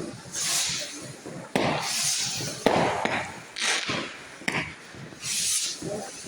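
Fireworks going off: repeated hissing bursts, with three sharp bangs in between.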